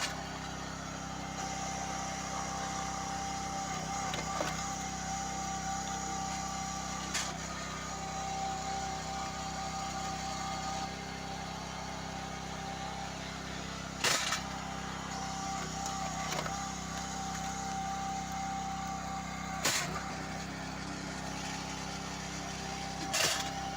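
Hydraulic log splitter's power unit running steadily with a constant hum and a thin whine, while the ram drives a log into the splitting blade. A few short, sharp knocks or cracks cut through it, about every six or seven seconds.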